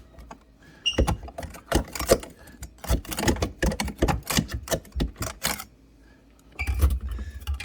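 Quick, irregular hard knocks and clicks, several a second, from ice being chipped and knocked loose inside a fridge's ice maker compartment. They stop near the end and give way to a brief low rumble.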